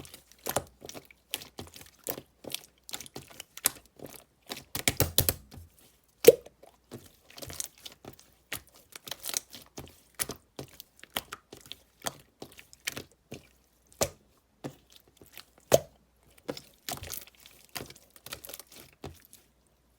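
Pink pearl slime being squeezed and pressed by hand, giving a rapid, irregular run of wet clicks and pops from trapped air bubbles, with a louder pop about six seconds in and another near sixteen seconds.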